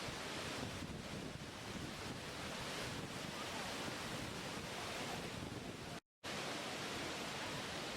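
Steady rushing water, an even hiss and rumble with no rhythm. It cuts out completely for a split second about six seconds in, then resumes unchanged.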